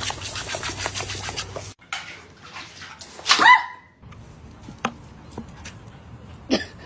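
A dog giving one short, loud pitched yelp about three seconds in, amid faint scattered clicks and handling noise.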